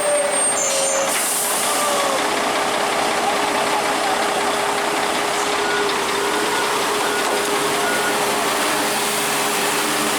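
Heavy truck engine running steadily over a continuous wash of road noise.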